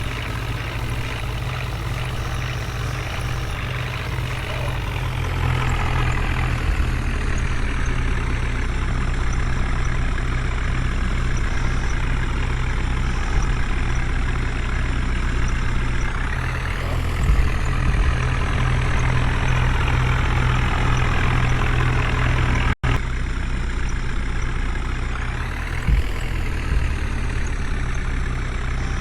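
Diesel engine of heavy farm or construction machinery running steadily with a deep rumble, swelling briefly a couple of times, with a momentary cut-out about three-quarters of the way through.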